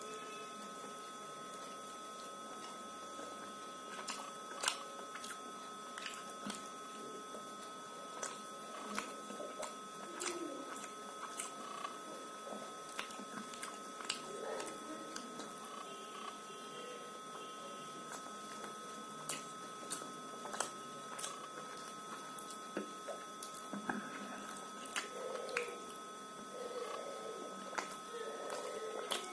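Mouth sounds of a person chewing soft, syrup-soaked gulab jamun: scattered wet squishing and smacking clicks over a steady background hiss.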